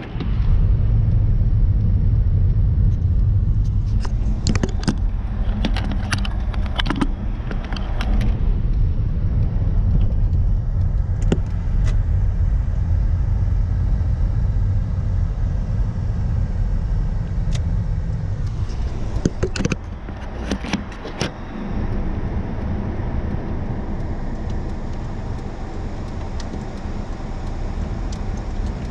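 Car running with a steady low rumble, broken by clusters of sharp clicks and rattles about four seconds in and again near the twenty-second mark.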